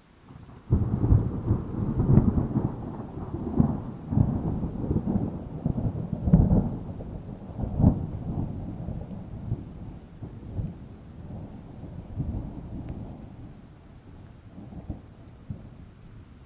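A roll of thunder breaks in about a second in. It rumbles low, with several sharp cracks over the next seven seconds or so, then slowly fades away over faint steady rain.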